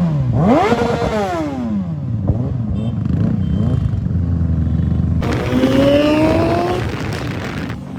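Kawasaki ZX-10R's inline-four engine revved twice in quick throttle blips, the pitch shooting up and falling back each time. It drops to a low steady note, then climbs smoothly in pitch from about five seconds in as it accelerates.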